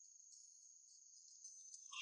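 Near silence with a faint, steady, high-pitched chirring of crickets or other insects.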